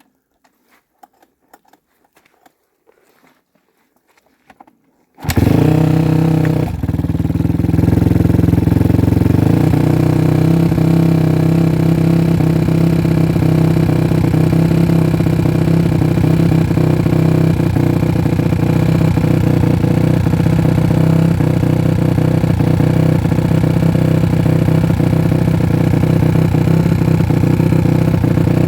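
A Suzuki RM-Z250 four-stroke single-cylinder dirt bike engine fires on the first kick about five seconds in, with the choke pulled out on a cold start. It then runs steadily at idle.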